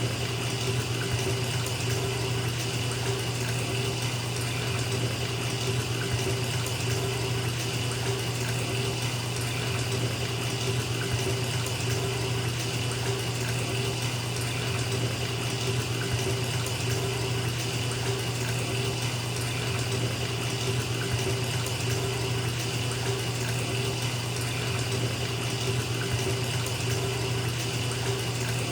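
Bathtub tap running, water pouring steadily into a filling tub, with an even rush and a low steady rumble under it.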